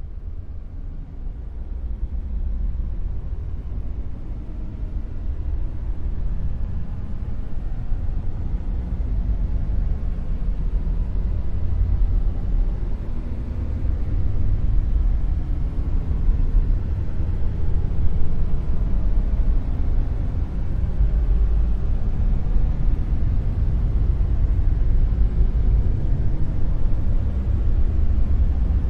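Dark noise: a deep, steady rumbling noise with its weight in the lowest bass and little treble. It slowly grows louder over the first several seconds.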